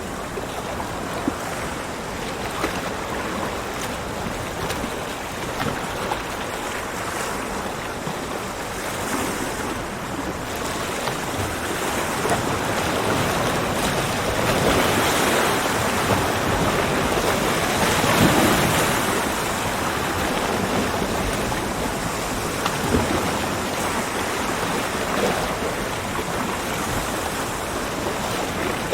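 Ocean waves breaking on a beach in a steady rush of surf, with one larger swell building and washing through in the middle before easing off.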